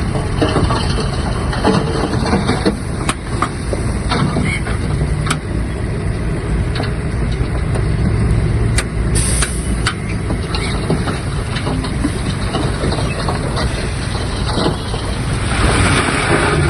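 Shantui DH17-C3 bulldozer's diesel engine running steadily at work, with scattered clicks and knocks over the low rumble.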